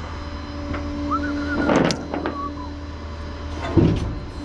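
Tow truck engine running with a steady low hum. There is a short squeak about a second in, then metallic clanks just under two seconds in and again near the end.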